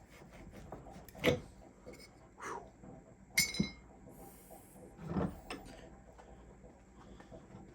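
Hand work on a motorcycle drum-brake pivot: a few scattered knocks of metal parts and tools being handled, and a single ringing metal clink about three and a half seconds in.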